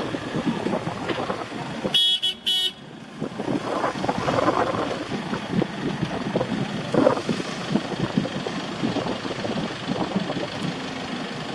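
A vehicle horn gives two short toots about two seconds in, over steady city street noise.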